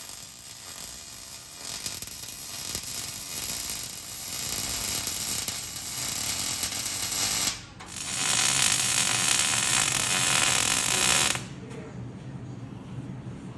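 Welding arc crackling in long bursts, with a short break about two thirds of the way in and a louder stretch after it that stops abruptly.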